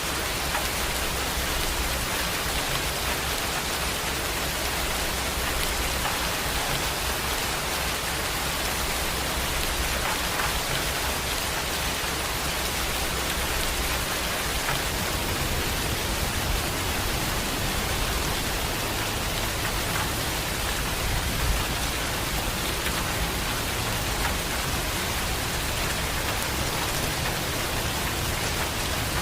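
Heavy rain falling steadily, an even unbroken hiss with a low rumble underneath.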